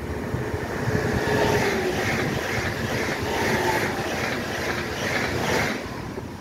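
Electric multiple-unit passenger train passing close by, its wheels clacking in a quick run of beats over the rail joints, with a faint whine. The sound drops away suddenly near the end as the last car passes.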